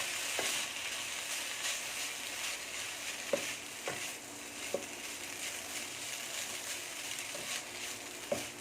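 Chicken, egg and freshly boiled Maggi noodles sizzling steadily in a frying pan as they are stirred together, with the utensil knocking against the pan a few times around the middle.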